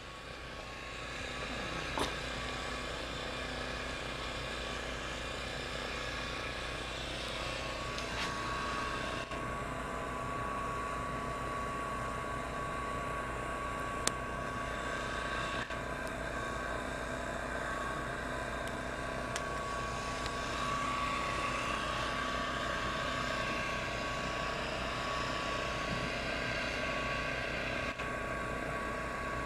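Snowblower engine running steadily, a constant drone with a few faint clicks.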